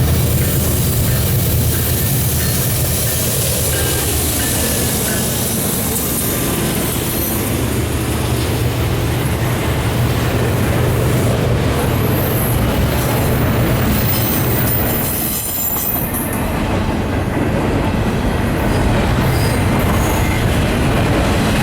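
Norfolk Southern intermodal freight train passing: a steady low drone from the diesel locomotives for most of the time, dipping briefly about fifteen seconds in, with the rolling cars' wheels clacking and squealing on the rails.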